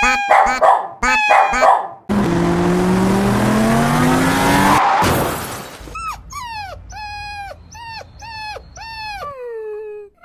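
A dog yelping several times in quick succession, then a loud rushing noise with rising tones for about three seconds, then a run of short whimpering cries that drop in pitch, ending in one longer falling whine.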